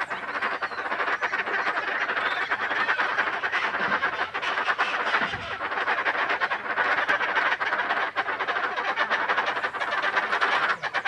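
An unidentified animal calling continuously: a dense chorus of rapid, rasping, croak-like pulses, strongest in the mid-high range, that the uploader takes for a bird he cannot name.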